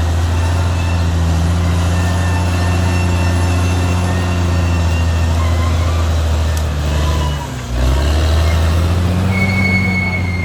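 Caterpillar D6R XL bulldozer's diesel engine running steadily under load. Its note sags sharply for a moment about seven and a half seconds in, then picks back up.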